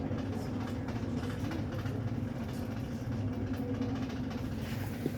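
Steady low mechanical drone of a large ferry alongside the terminal, with light clacks scattered through it.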